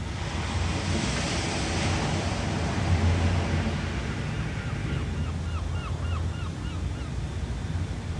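Ocean waves washing in over a steady low rumble, with one wave swelling and breaking early on and then fading back into the wash.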